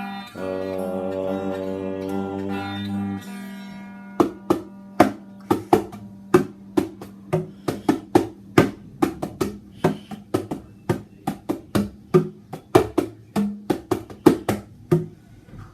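Instrumental guitar music: a chord held for about three seconds, then a run of quick plucked or struck notes, about three a second, over a steady low drone.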